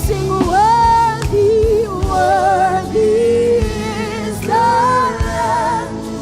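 Live gospel worship music: a lead vocal sings long, wavering held notes over a full band with a steady drum beat.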